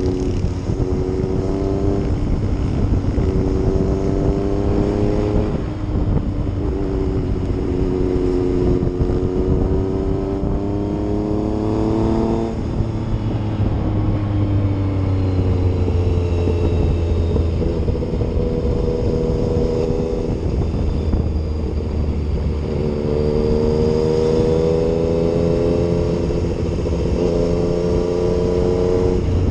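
Yamaha MT-09's three-cylinder engine on the move, pulling through the gears: its note climbs steadily and drops sharply at upshifts about 2, 5 and 12 seconds in. It then eases off gradually and picks up again a few seconds before the end, over a low wind rumble.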